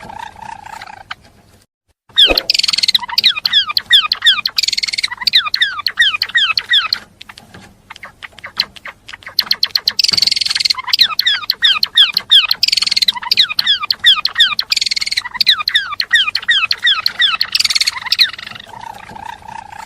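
Gelatik belong songbird singing: long, fast phrases of rapid downward-sliding high notes. There is a brief pause about two seconds in and a thinner, quieter stretch around the middle before the dense song resumes.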